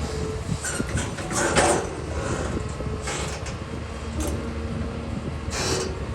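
Doosan excavator working: its engine runs with a steady low rumble, under several short noisy bursts from the machine's work.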